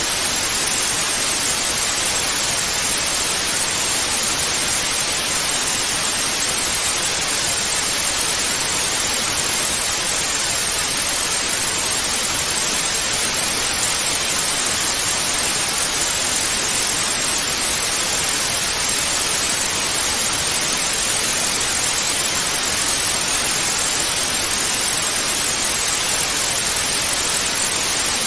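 Television static: a steady, even hiss of white noise, brightest in the upper range, with no change in level.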